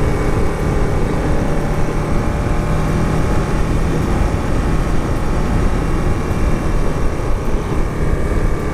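Motorcycle engine running at a steady cruise, its note held level, with wind rushing over the rider-mounted microphone.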